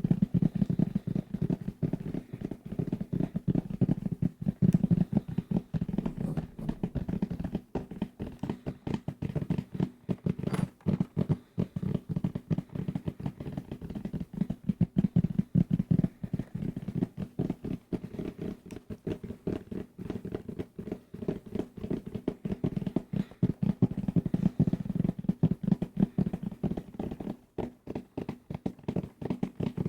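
Rapid, continuous fingertip tapping on assorted desk objects, many dull, low taps a second with no pause.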